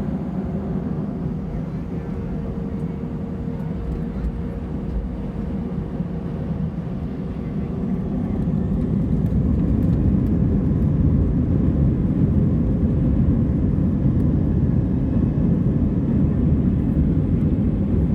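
Jet engines of an Airbus A320-family airliner heard from inside the passenger cabin as a steady low roar. About eight seconds in, the noise grows louder and stays there as the engines spool up toward takeoff thrust.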